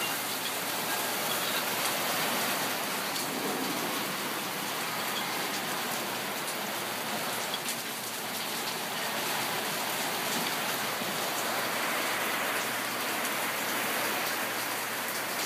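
Heavy winter rain falling steadily: an even hiss of drops with scattered sharper drip ticks.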